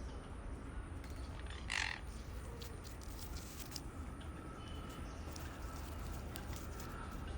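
Sun conure giving one short call about two seconds in, over a steady low hum with faint scattered clicks.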